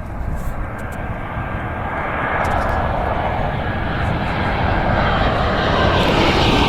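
Jet airliner engines, a broad rushing noise with a faint steady whine, growing steadily louder and brighter as the aircraft comes closer.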